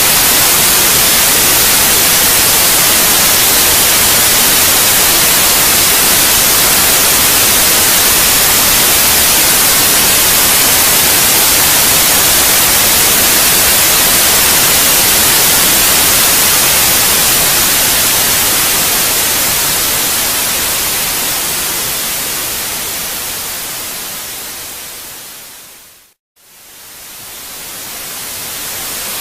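Steady white noise, a hiss strongest in the treble, for lulling a baby to sleep. It fades gradually over the last ten seconds to a brief silence about 26 seconds in, then fades back up.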